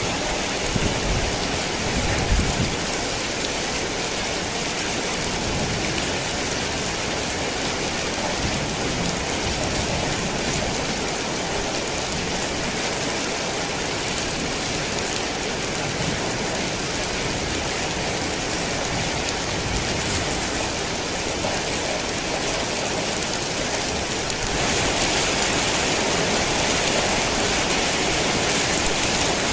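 Heavy rain falling steadily, with a low rumble in the first couple of seconds. The downpour grows louder and heavier near the end.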